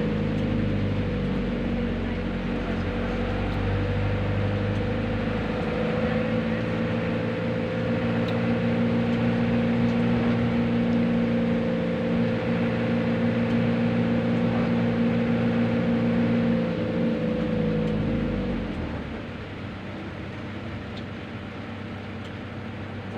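Motor vehicle driving at a steady speed, its engine hum and road noise even, then easing off and dropping quieter about eighteen seconds in.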